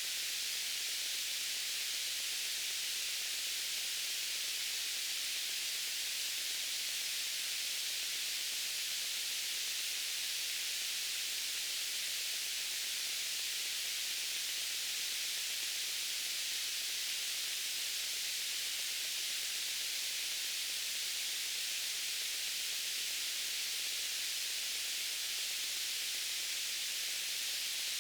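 Steady white noise: an even, high-pitched hiss that never changes, with very little low end.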